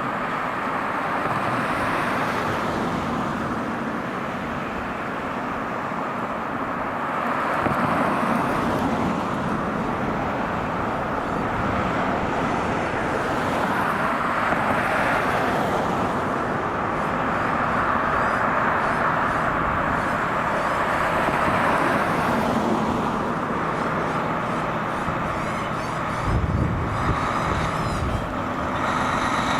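Road traffic with trucks passing by: steady tyre and engine noise that swells and fades several times as vehicles go past.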